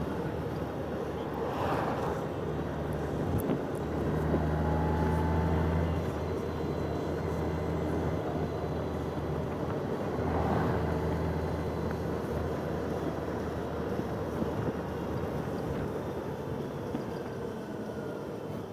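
Motorcycle engine running steadily at road speed, with wind and road noise; it swells a little for a couple of seconds about four seconds in.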